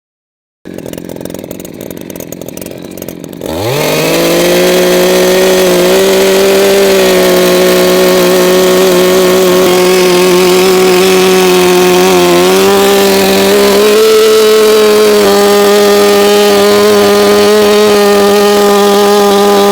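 Chainsaw revving up sharply after a few seconds of lower rattling, then running at high speed with a steady high pitch, cutting into a log. The pitch dips briefly and recovers about twelve seconds in.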